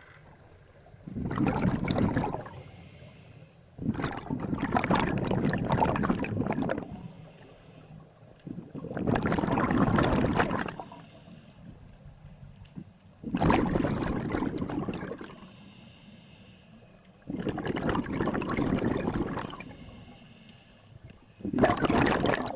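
Scuba diver breathing through a regulator underwater. A gush of exhaled bubbles comes about every four seconds, six times, with quieter inhalations between.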